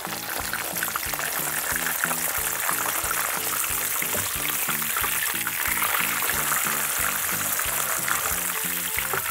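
A breaded chicken cutlet sizzling as it shallow-fries in hot rice oil, over background music with a steady beat.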